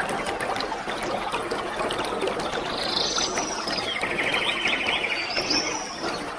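Steady rushing of a waterfall, with a bird singing over it: a high slurred whistle followed by a rapid buzzy trill about three seconds in, and another high whistle near the end.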